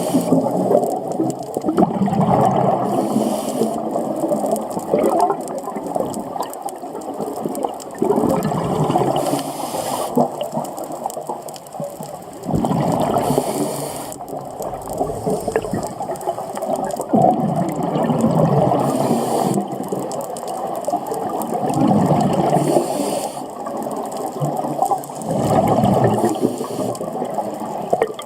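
Scuba diver's breathing through a regulator, heard underwater: a brief hiss of breath every four to five seconds, and between breaths the gurgling rumble of exhaled bubbles.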